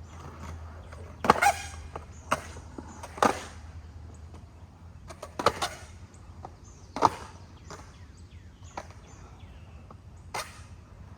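Skateboard clacking on concrete during shove-it practice: several sharp hits of the board at irregular intervals over a faint steady low hum.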